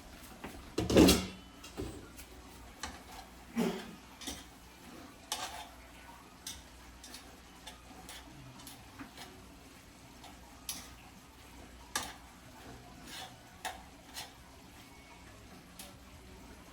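A cooking utensil clanking against a pot, with one loud clang about a second in and another a few seconds later, then scattered lighter clinks and taps.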